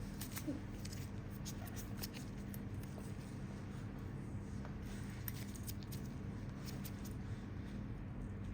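Faint, scattered short clicks of small metal pedicure tools being handled at a toenail, over a steady low hum.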